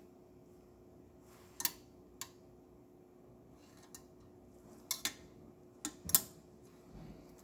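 A handful of light clinks and knocks of hard objects being handled, spaced a second or more apart, over a faint steady hum.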